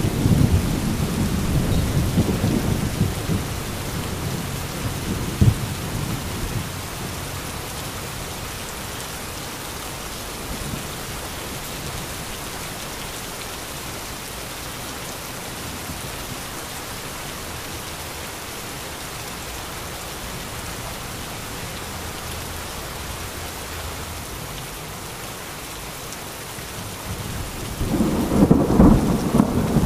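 Heavy rain falling steadily with thunder. A rumble of thunder is fading away at the start, with a sharp crack about five seconds in. Another loud rumble of thunder begins near the end.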